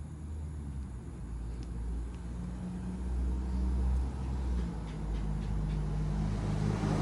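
An engine running steadily at low speed: a deep drone that gets a little louder about three seconds in.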